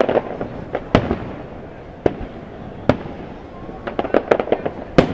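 Aerial fireworks shells bursting: sharp single bangs about once a second, then a quick run of smaller crackling pops near the end before another bang.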